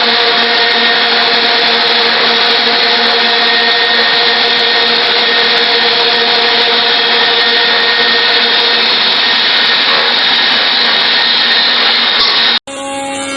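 Wood-handle shaping machine running, its cutters steadily shaving a wooden blank, with a steady machine hum under the cutting noise. Near the end it cuts off abruptly and a quieter, different steady machine hum takes over.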